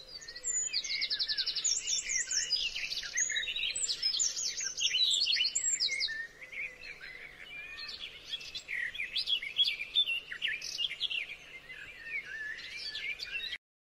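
Birds chirping and singing in many quick, overlapping calls and trills, cutting off abruptly near the end.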